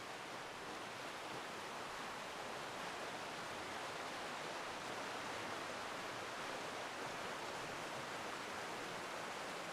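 Rushing water of a forest river with small waterfalls, a steady even wash with no breaks.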